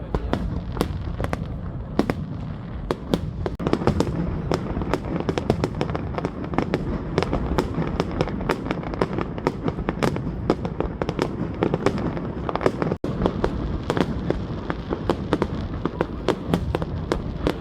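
Fireworks display: a rapid, dense string of bangs and crackles over a continuous low rumble. The sound drops out for an instant about 13 seconds in.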